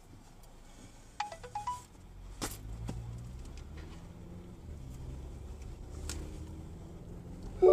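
A low vehicle running sound, with a few short electronic chime tones about a second in and a brief louder tone just at the end.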